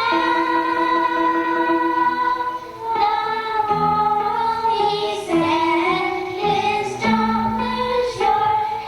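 Singers performing a song with held notes, sounding like a group of female or children's voices with accompaniment.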